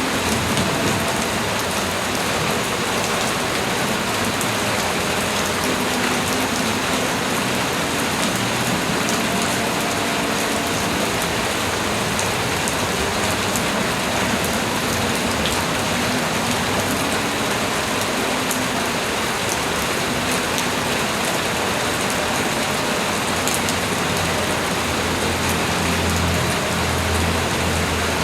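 Steady light rain falling, an even hiss with many fine drop ticks. A low rumble comes up near the end.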